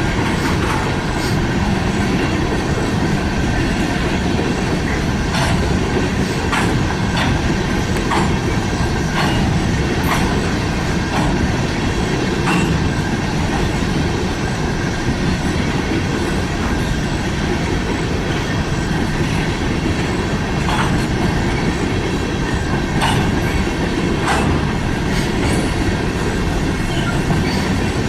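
Freight train cars rolling past, loud and steady: a heavy rumble with irregular clacks of wheels over rail joints.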